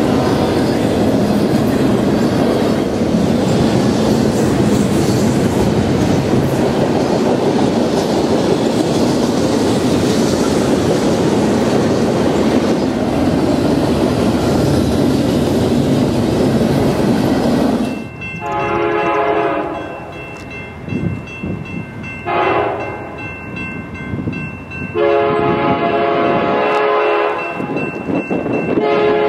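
Double-stack container train passing close by: a steady loud rumble and rattle of the rolling well cars. About two-thirds of the way in it gives way to a distant locomotive air horn sounding several multi-note chord blasts, long, short, long, then another beginning, as an approaching train signals for the grade crossing.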